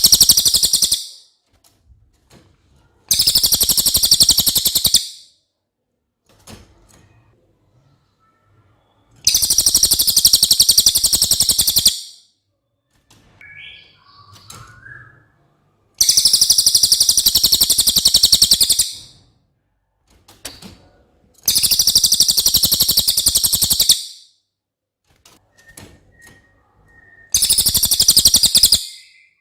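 A cililin songbird singing: six loud, very high, fast trills of two to three seconds each, about every six seconds, with faint short chirps in the gaps.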